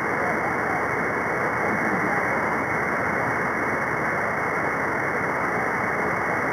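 Steady radio static: the hiss of the 11-meter Free Band heard through a shortwave receiver in the gap between transmissions, cut off sharply in pitch by the receiver's narrow voice filter.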